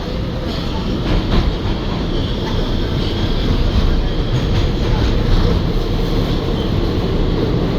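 Interior of an R211A subway car on the C line running at speed between stations: a steady, loud rumble of wheels and motors that slowly builds, with a few sharp clicks about a second in.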